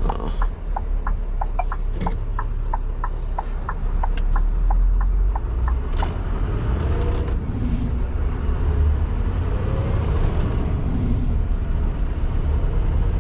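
Cab of a Scania R620 V8 truck: the indicator ticks steadily, about four ticks a second, for the first five seconds or so over the engine's low rumble. The engine then pulls harder, louder and steady, with a few short hisses.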